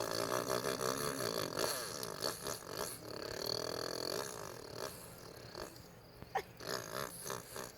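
A person imitating a four-stroke motocross bike with their mouth, a buzzy vocal engine noise whose pitch wobbles and rises and falls like a bike revving through whoops. It is quieter for the last few seconds.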